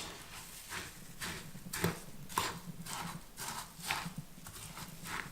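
A spoon stirring oatmeal into applesauce in a bowl, knocking and scraping against the bowl about twice a second.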